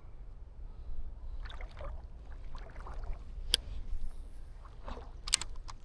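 Creek water splashing and sloshing over a steady low rumble, with two sharp clicks, one past the middle and one near the end.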